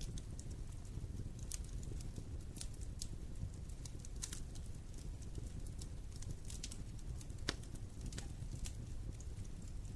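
Wood fire in a fireplace crackling: scattered sharp pops and snaps over a steady low rumble, the loudest pop about seven and a half seconds in.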